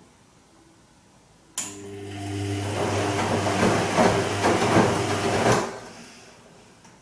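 Bosch Serie 2 VarioPerfect washing machine on its Silk program turning its drum once: the motor starts with a hum and a swishing of wet laundry and water that swells for about four seconds, then stops suddenly. Short gentle turns with long pauses are typical of a delicates wash.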